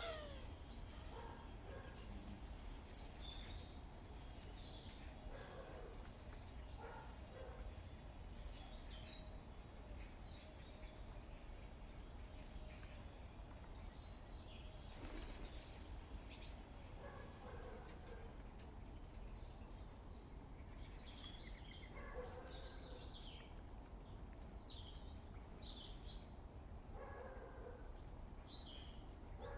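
Small garden birds chirping and calling in scattered short notes over a low, steady background rumble. Two sharp clicks stand out, about three seconds in and about ten seconds in.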